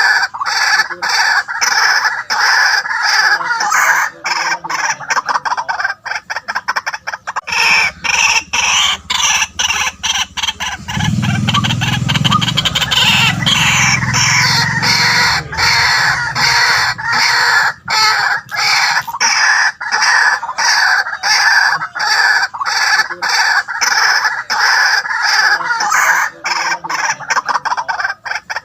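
White-breasted waterhen calling: a long, loud, unbroken run of rapidly repeated harsh croaking notes. A low rumble joins in the middle.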